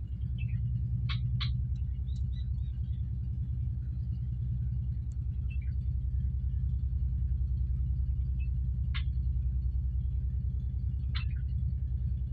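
A steady low rumble dominates, with a bird's short, sharp chirps over it now and then: a pair about a second in, one in the middle and two more near the end.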